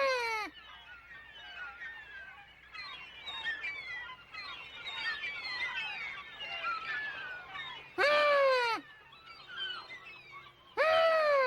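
Seagull crying: loud drawn-out calls that fall in pitch, one trailing off at the start, one about eight seconds in and one near the end, with many fainter quick chirping calls in between.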